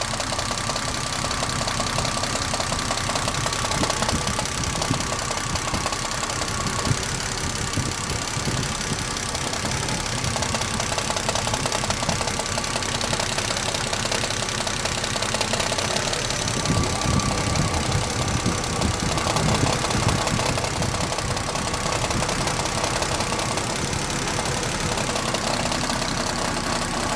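Jeep Grand Cherokee WJ's 4.0 straight-six running steadily with the transmission in reverse, with a knock from the alternator area, slightly louder for a few seconds past the middle.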